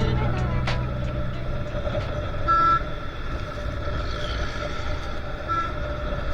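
Steady road rumble of a motorbike ride, with a vehicle horn beeping briefly twice: once about two and a half seconds in and again near the end.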